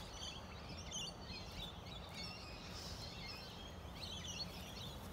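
Wild birds chirping and calling in short high phrases over a faint steady outdoor background noise, with one faint tick at the very start.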